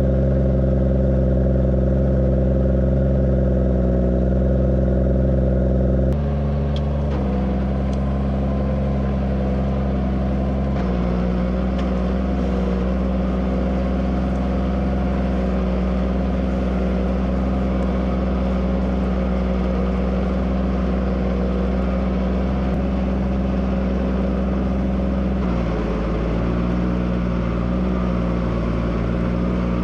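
Tractor engine running steadily under load while pulling a plough. Its note shifts abruptly about six seconds in, again a few seconds later, and once more near the end.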